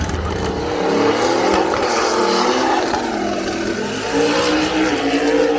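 Drag-racing car engine running at high revs, its note rising and falling several times.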